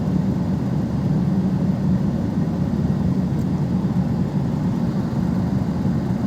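Perodua Kenari's three-cylinder engine running steadily, a constant low hum with no revving.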